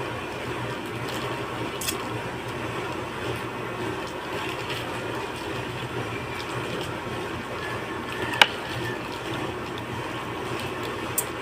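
Steady background rush with a few sharp clinks, the loudest about eight seconds in, as a spoon knocks against a bowl while eating.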